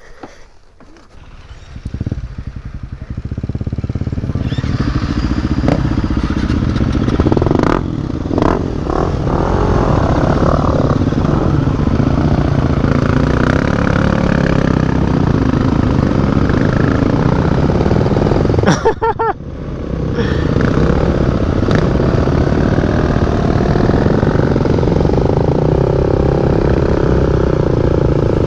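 Dirt bike engine pulling away: quiet at first, then picking up about two seconds in and running hard under way. It drops out briefly about two-thirds through, then pulls again.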